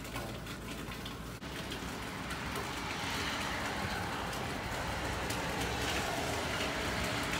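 Steady rain falling during a thunderstorm, a wash of noise that grows heavier about three seconds in.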